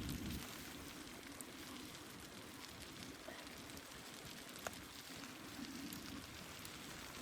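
Faint wood fire burning in a hot-tent stove: a steady hiss with a few scattered sharp crackles.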